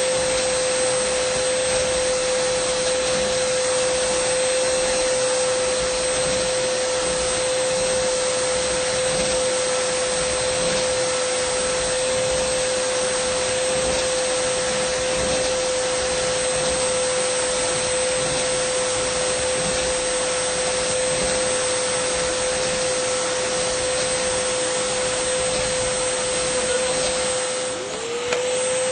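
Dyson vacuum cleaner running steadily: a constant rushing hiss of air with a steady mid-pitched motor whine. Near the end the sound dips briefly and the whine slides back up to pitch.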